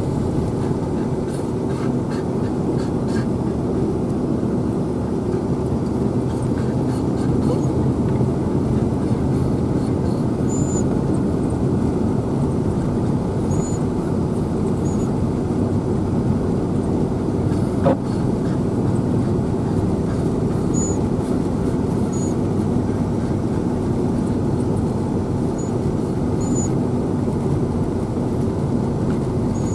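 Vehicle driving on a snow-covered road: a steady engine and road drone throughout. There are occasional faint clicks and a single knock about eighteen seconds in.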